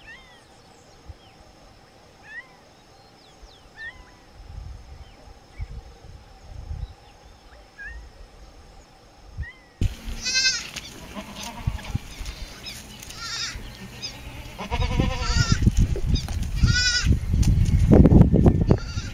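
A young goat bleating several times, each call wavering, over low rumbling and knocking noise that grows louder near the end. Before it, only faint short high chirps over a quiet background.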